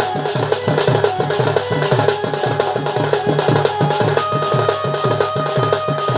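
Folk drum ensemble playing a fast, even beat for a Sambalpuri danda dance, with a steady held melodic note joining in about two-thirds of the way through.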